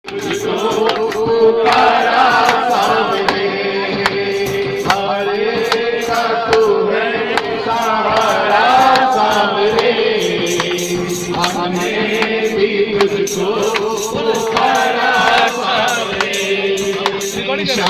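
Group devotional kirtan: voices singing a bhajan over a steady held drone note, with a steady beat of claps or small percussion.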